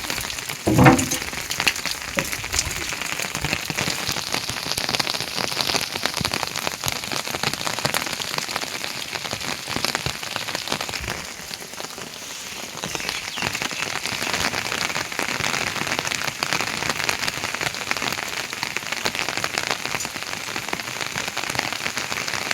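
Heavy rain falling steadily, a dense patter of drops that eases a little for a couple of seconds midway. A brief, louder sound stands out just under a second in.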